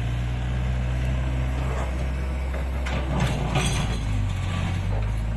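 Diesel engine of heavy earth-moving machinery running steadily, its pitch shifting a couple of times, with a short burst of clattering knocks near the middle.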